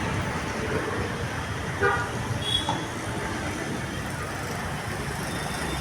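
Steady road traffic noise with a short horn toot about two seconds in.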